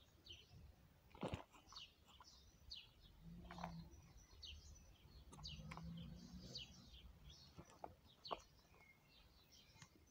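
Small birds chirping over and over, faint, with a few sharp clicks and a low hum twice near the middle.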